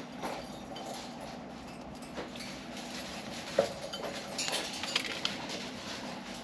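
Budgies pecking and cracking millet: scattered small taps and clicks, with one sharper knock about three and a half seconds in and a brief soft twitter a little later.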